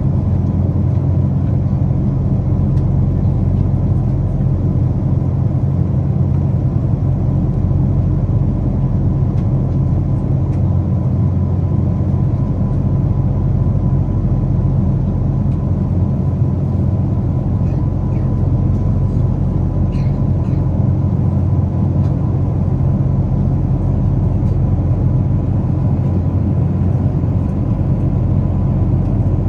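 Steady low drone inside a Boeing 777 passenger cabin from the engines and airflow, with a faint steady whine, even throughout with no rise or fall.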